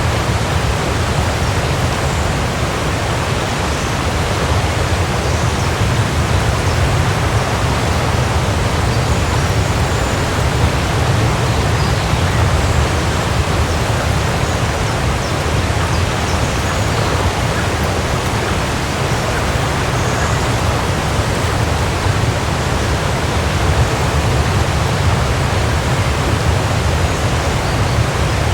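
Waterfall: water falling and splashing in a steady, even rush with a deep low rumble, unchanging throughout.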